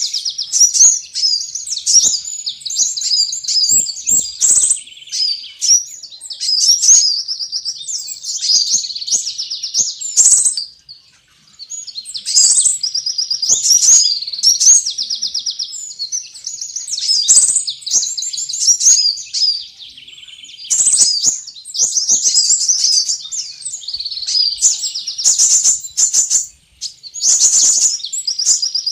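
Sunbird lure recording: high-pitched, rapid chirping and twittering trills, in bursts of a second or two separated by brief pauses, with one longer gap about eleven seconds in.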